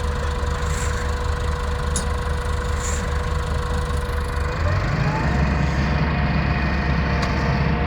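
Heavy machine's diesel engine running steadily, then revving up about four and a half seconds in, its pitch rising and holding at the higher speed.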